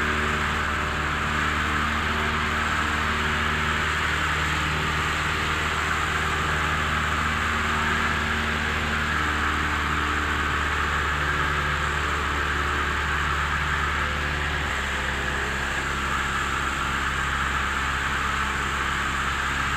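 Single-engine Cessna 172M's Lycoming four-cylinder engine and propeller in steady cruise, heard as an even drone inside the cabin. The tone shifts slightly about three-quarters of the way through.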